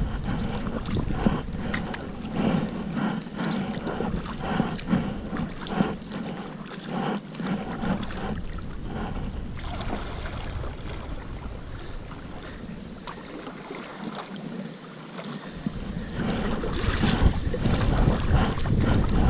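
Water splashing and lapping around a kayak as it is paddled, with wind rumbling on the camera microphone. The wind grows louder near the end.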